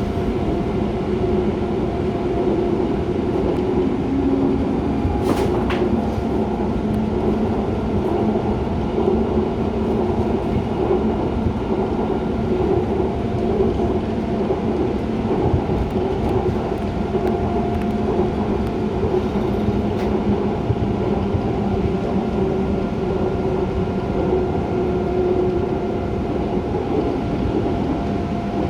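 Seoul Subway Line 2 train running steadily across the Dangsan Railway Bridge: a continuous rumble of wheels on track with a steady motor hum over it.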